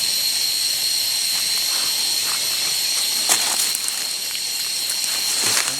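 Steady high-pitched drone of jungle insects such as cicadas or crickets, with two brief sharp clicks, one about halfway through and one near the end.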